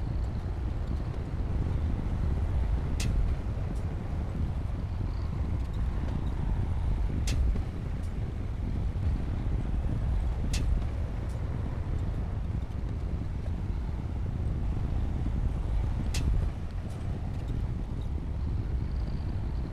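Komatsu D60P bulldozer's diesel engine running with a steady low rumble, with four sharp, short clanks spread through the stretch.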